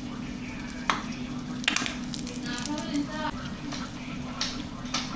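Food sizzling in a frying pan, with a utensil clicking and scraping against the pan a few times over a steady low hum.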